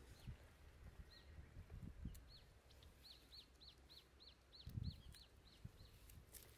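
A bird calling faintly: a run of about a dozen short, high, down-slurred chirps at roughly three a second. A soft low thump comes about two-thirds of the way through.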